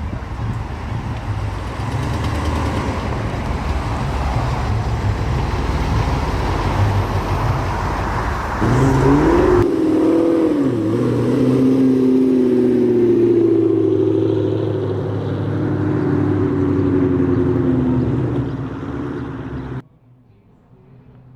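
Car engines running, loud at first; about nine seconds in the sound changes to a pitched engine note that rises and falls. It cuts off suddenly near the end.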